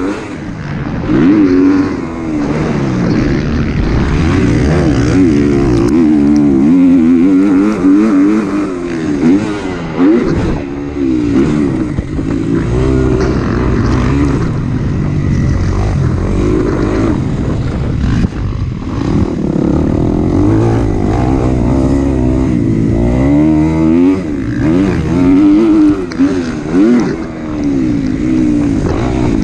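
Kawasaki KX250 four-stroke single-cylinder motocross bike being raced, its engine revving up and dropping back over and over as the rider works the throttle and shifts through the gears.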